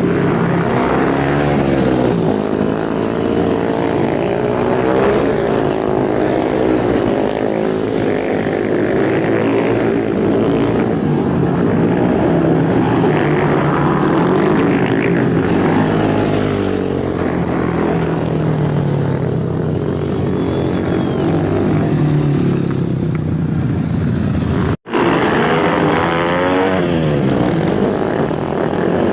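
Motorcycle engines running hard, their pitch rising and falling again and again as they rev and pass. The sound cuts out for an instant about 25 seconds in.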